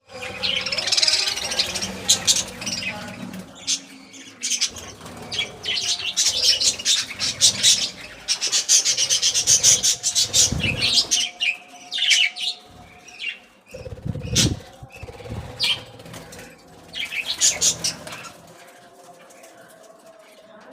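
Budgerigars chattering and chirping busily, with a couple of soft wing flutters or thumps; the chatter dies down near the end.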